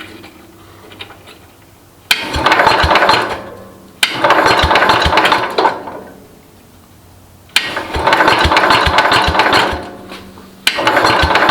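Electric starter cranking the single-cylinder Kohler engine of a Cub Cadet 127 garden tractor in four separate bursts of a couple of seconds each, with quiet gaps between; the engine turns over with a rapid knocking of compression strokes but does not catch. The cranking is a spark check on an engine that has not run in years.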